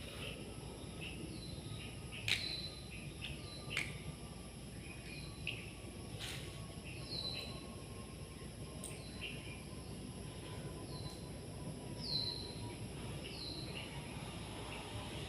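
Birds chirping in short, repeated calls, with a few sharp clicks and a faint steady tone under them that slowly drops in pitch.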